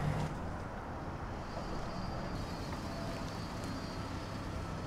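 A car engine idling: a steady low rumble with an even hiss over it and a faint high thin tone through the middle.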